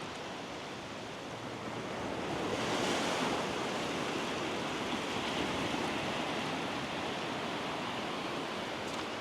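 Surf washing on a beach, a steady rush that swells about three seconds in and then holds.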